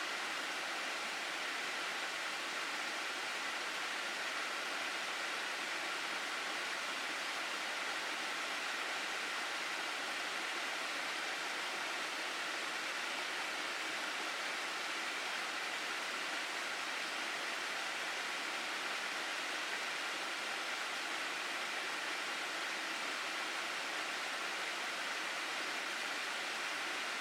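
Water rushing in a mountain gorge stream, a steady, unbroken rush with no other events.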